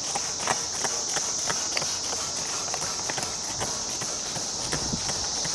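Steady high-pitched drone of insects such as crickets or cicadas, with a run of short sharp clicks and taps about three times a second.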